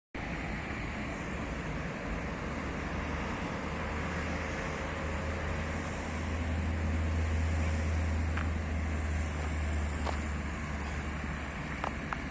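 Steady outdoor rushing noise with a deep rumble that swells around the middle, and a few faint clicks near the end.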